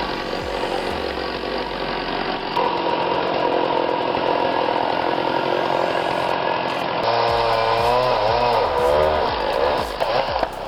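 Power saw running and cutting through wood: a loud, steady sawing noise. A wavering pitched whine comes in about seven seconds in.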